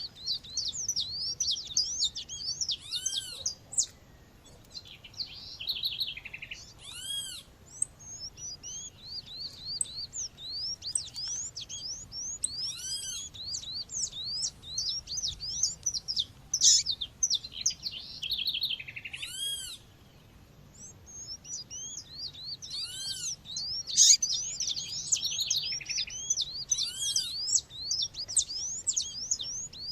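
Calls of a female Sporophila seedeater mixed with other bird sounds: many quick, high rising chirps, with a louder arching call every few seconds.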